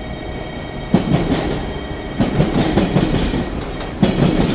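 Train wheels clacking over rail joints, starting suddenly about a second in as a train rolls along the platform track, with repeated knocks and a fresh loud set of clacks near the end.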